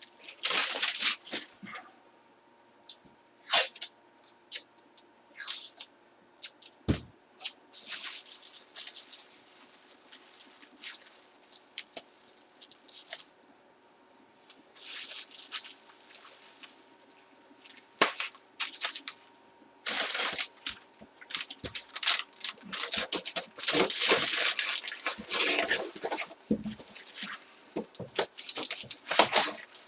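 Packaging being handled: irregular rustling, crinkling and tearing, with scattered clicks and one heavier thump about seven seconds in.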